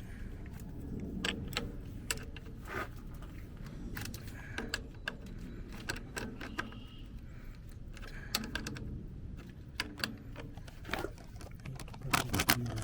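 Hand tools working on metal: scattered clicks and clinks over a low background hum, with a quick run of louder clicks near the end.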